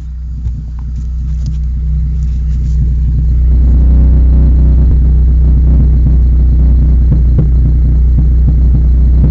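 Rover 213 SE engine running with a leaking exhaust, a steady low rumble that grows louder over the first few seconds and then holds steady.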